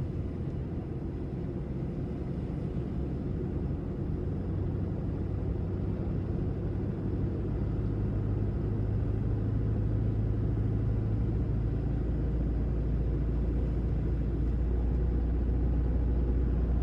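Heavy pickup truck driving on an icy road: a steady low engine and road drone that grows somewhat louder in the second half.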